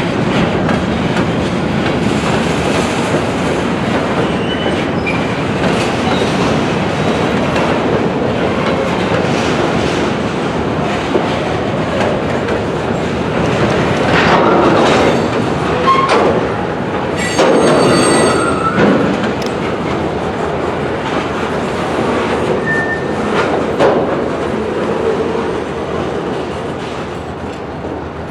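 Freight cars rolling along yard track, a steady rumble of wheels on rail with clicks over the joints. About two-thirds of the way through there are louder knocks and a short wheel squeal, and the sound eases slightly near the end.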